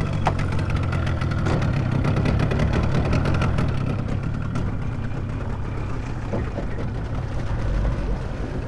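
Small motorboat engine running steadily with a low rumble.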